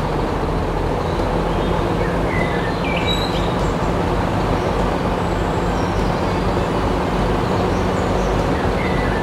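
A small machine's motor running steadily, a low hum under a dense, even rattling noise. Birds chirp briefly a few times.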